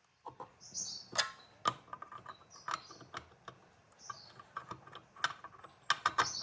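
Irregular clicks and light knocks of metal parts and hand tools being handled, a few of them sharper than the rest, with brief scraping swishes in between.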